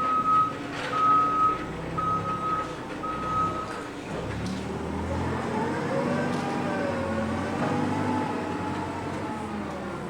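Vehicle backup alarm beeping four times, about once a second, over the hum of machinery. It then stops, and an engine or motor runs on with its pitch slowly rising and falling.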